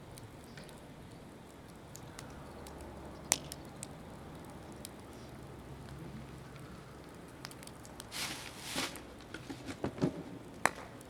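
Wood fire of mostly green firewood burning with a steady low hiss and scattered crackles, including a sharp pop about 3 seconds in and another near the end. A louder patch of crackling and rustling comes about 8 to 10 seconds in.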